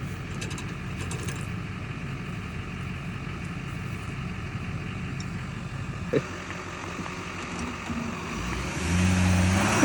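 An engine running steadily at low speed, with a single knock about six seconds in, growing louder near the end.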